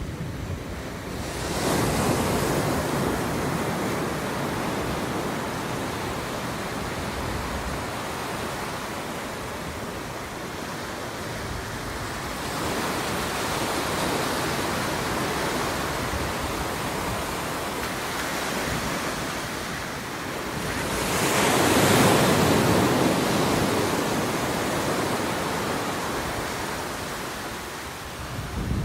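Ocean surf: waves breaking and washing in as a steady rush. It swells three times, about two seconds in, around the middle and loudest about three quarters of the way through.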